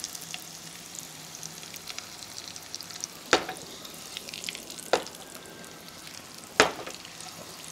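Marinated hard-boiled eggs shallow-frying in oil in a kadhai: a steady light sizzle and crackle, the oil not as hot as the cook wanted. Three sharp knocks come about a second and a half apart as the pan is tilted to roll the eggs.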